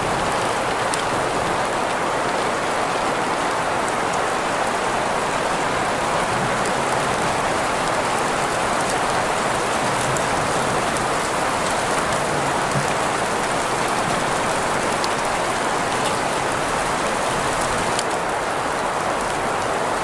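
Steady rain mixed with green noise: an even hiss heaviest in the middle pitches, with a few faint, sharp drop ticks scattered through it.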